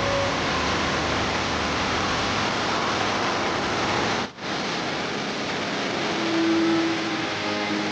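Steady rushing noise of a large indoor waterfall's falling water, broken by a sudden brief dropout about four seconds in.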